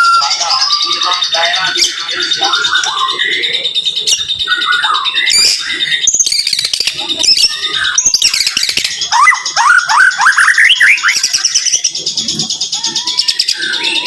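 White-rumped shama (murai batu) singing a rapid, varied song of whistles and trills, with a quick run of rising sweeping notes about two-thirds of the way through.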